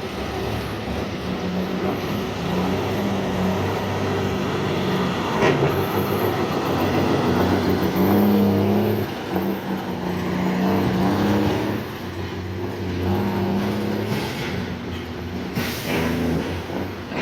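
Heavy trucks' engines running as they pass, the engine note rising and falling, with a sharp knock about five seconds in and another near the end.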